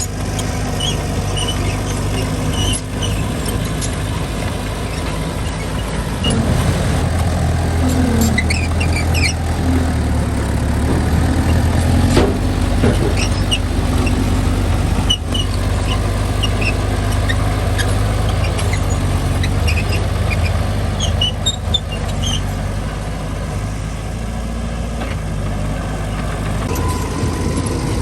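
Diesel engine of a small Mitsubishi bulldozer running steadily, working harder from about six seconds in, with scattered short high squeaks and clinks.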